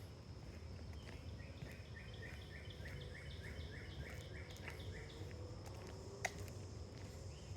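A songbird sings a quick series of about a dozen repeated, down-slurred notes, roughly four a second, over a steady high insect drone. A single sharp click near the end.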